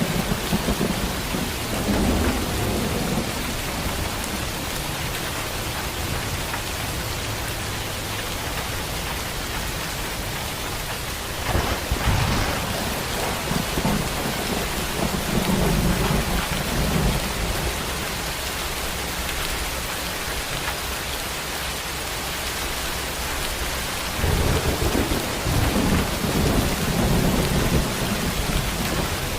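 Heavy rain pouring steadily, with thunder rumbling several times over it. A sharper crack of thunder comes about twelve seconds in, and a longer rumble builds near the end.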